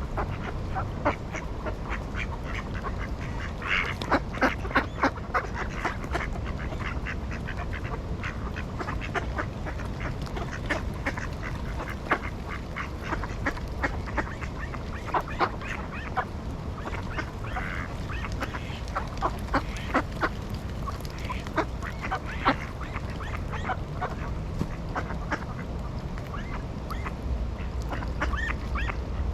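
Ducks quacking in short, scattered calls, several in quick succession about four to five seconds in, over a steady low background rumble.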